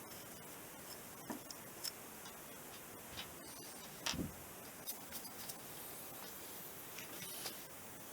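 Scattered light clicks and taps of small metal parts being handled and fitted, the loudest a knock about four seconds in, over a steady hiss.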